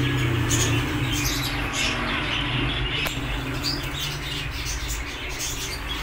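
Birds chirping in short, scattered high squeaks over a steady low hum.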